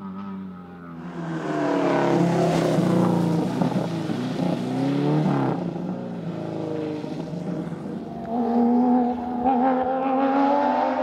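Rally car engine accelerating hard through the gears. Its pitch climbs and drops back at each upshift, loudest from about two to five seconds in. It eases off, then pulls hard again, rising in pitch, in the last few seconds.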